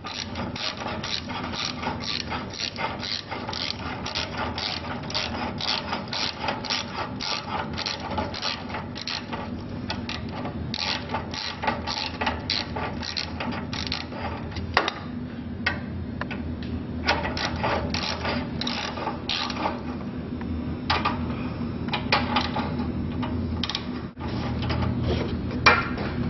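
Hand ratchet wrench clicking as it tightens the bolts of an exhaust-stud repair clamp on a truck's exhaust manifold, in steady runs of a few clicks a second that break into shorter bursts with pauses after about 14 seconds.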